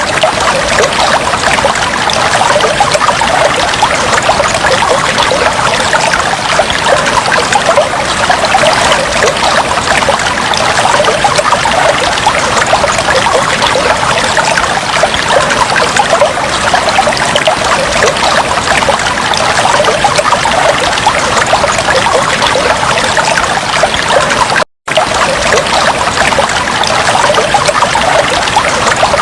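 Fish tank water trickling and bubbling steadily, a dense stream of small splashes and bubble pops. It cuts out for a split second about 25 seconds in.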